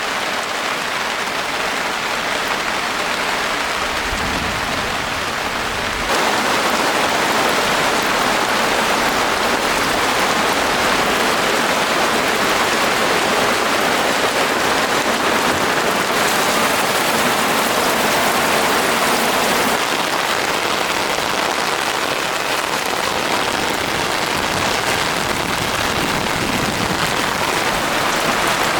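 Steady heavy rain falling, an even hiss of drops that grows louder about six seconds in.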